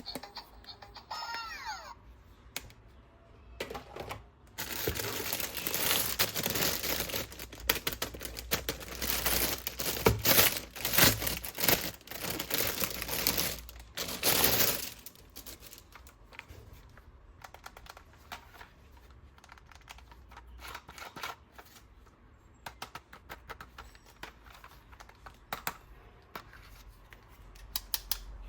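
Toy packaging being opened by hand: several seconds of dense crinkling and tearing full of sharp clicks, then lighter, scattered clicks of handling.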